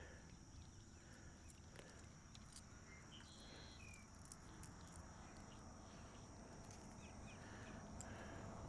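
Near silence: faint outdoor ambience with a steady high-pitched insect buzz and a few faint clicks.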